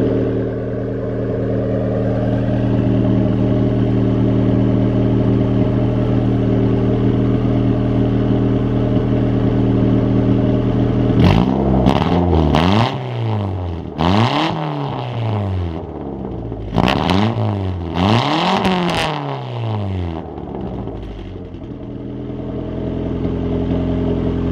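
Turbocharged Honda Civic D-series four-cylinder with a newly welded 2.5-inch exhaust. It idles steadily, then about halfway through it is revved in a quick run of about six blips before it settles back to idle.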